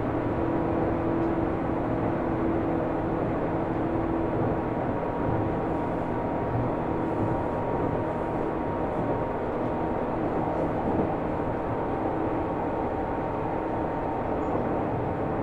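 Running noise heard from inside a Seibu New 2000 series commuter electric train car: a steady rumble of wheels on rail, with a faint steady hum.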